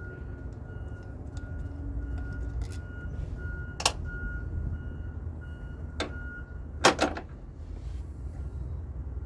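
Sharp metallic clinks, one about four seconds in, one about six seconds in and a close pair about seven seconds in, over a steady low rumble, with a faint high beep repeating about twice a second until the pair of clinks.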